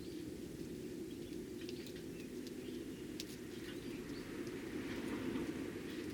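Eurasian tree sparrows giving short, scattered chirps over a steady low hum.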